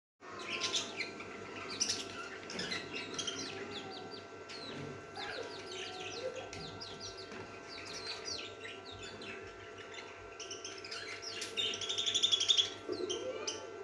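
Several pet parrots chirping and twittering in quick, short calls throughout, with a louder, rapid buzzy chatter about twelve seconds in.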